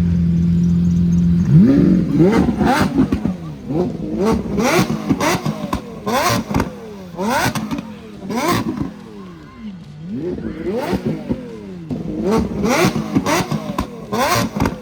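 Lamborghini Aventador V12 idling steadily, then revved hard again and again from about a second and a half in: quick blips that rise and fall in pitch, with sharp cracks at the peaks. After a short lull in the middle comes another run of revs near the end.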